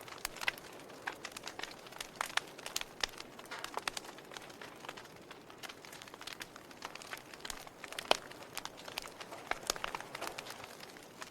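Log fire crackling: irregular sharp pops and snaps over a soft hiss, with one louder pop about eight seconds in.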